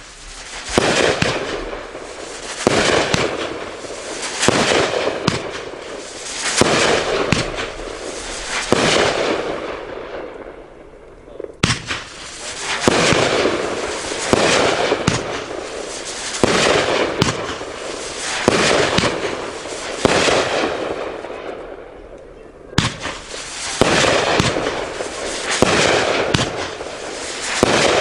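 A 500-gram, 25-shot consumer firework cake firing shot after shot, about one every one to two seconds, each a sharp report followed by a long crackling, hissing tail from the bursts. It pauses briefly twice, about ten seconds in and again past twenty seconds.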